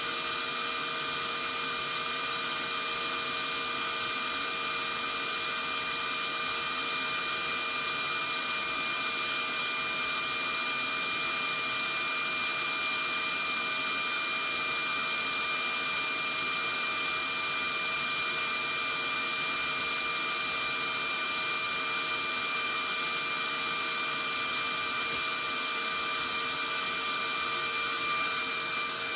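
Vacuum cleaner running steadily, a constant rushing hiss with a fixed high motor whine, unchanging throughout.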